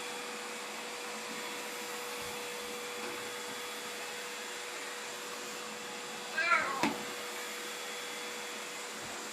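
Vacuum cleaner running steadily with a constant hum. About six and a half seconds in there is a short cry that falls in pitch.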